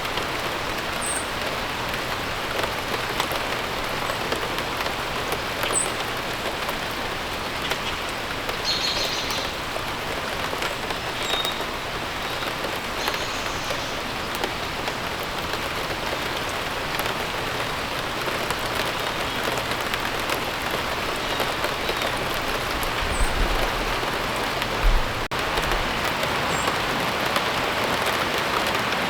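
Steady rain falling, with a few short bird chirps scattered through it. A brief low rumble comes near the end.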